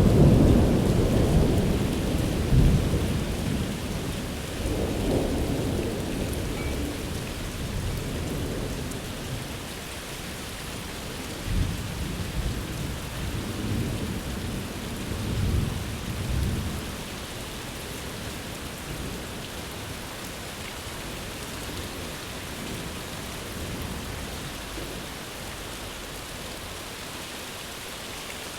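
Steady rain falling, with thunder: a rumble dying away at the start and a few fainter rolls of thunder around the middle, then only the rain.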